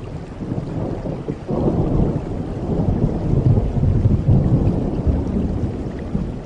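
Thunder rumbling over steady rain: a low rumble swells about a second and a half in, is loudest in the middle and eases off near the end.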